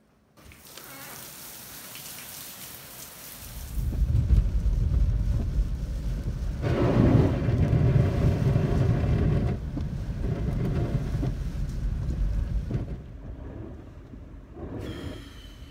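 Heavy rain pelting a car's windshield and body while driving in a thunderstorm, with a loud deep rumble setting in about four seconds in and easing off near the end.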